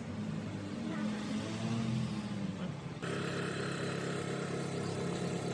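Car engine running: its pitch rises and falls for about three seconds, then changes abruptly to a steady, even note.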